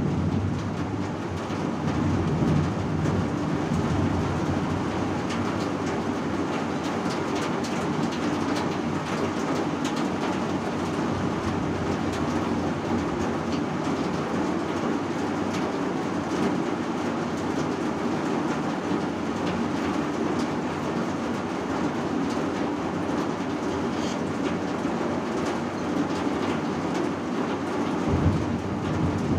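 Heavy rain: a steady rushing over a low rumble, with many small sharp ticks of drops striking a surface. The rumble deepens near the end.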